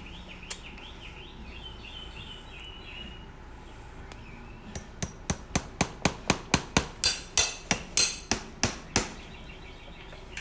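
Farrier's driving hammer tapping a horseshoe nail through the shoe into the hoof wall, a quick run of sharp metallic strikes at about four a second starting about halfway through, driving the nail that locks the clipped shoe in place.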